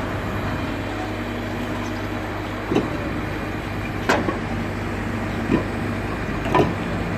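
A steady engine hum with background noise, broken by four sharp knocks spaced a little over a second apart from about three seconds in.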